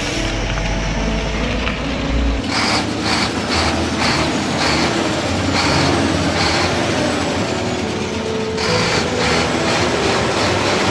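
Heavy truck running, with mechanical and road noise. The sound changes abruptly about two and a half seconds in and again about eight and a half seconds in. In between comes a string of short, sharp noises about two a second.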